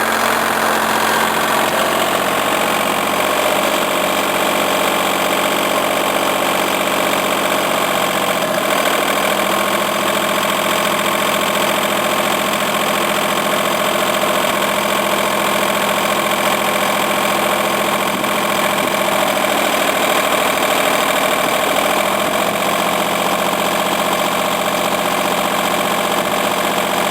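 Antonio Carraro compact tractor's engine idling steadily, its low note shifting slightly a few times.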